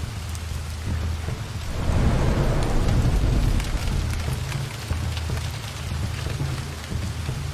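Steady rain falling on forest foliage, with individual drops ticking. About two seconds in, a low roll of thunder swells for around two seconds and then fades back into the rain.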